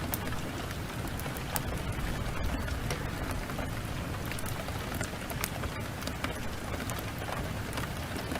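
Steady heavy rain, with many short sharp crackles and pops of a wood fire scattered through it.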